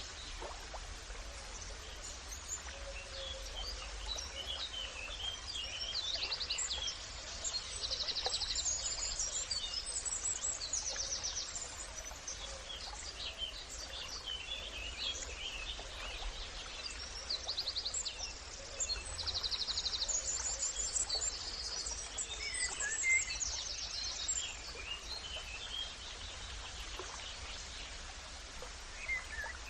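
Several wild birds chirping and calling, with bursts of rapid trills, over a steady low rumble.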